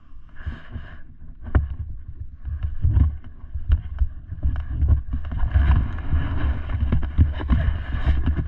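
Dirt bike being ridden through snow: heavy wind buffeting on the microphone, with repeated knocks and clatter, building up over the last few seconds.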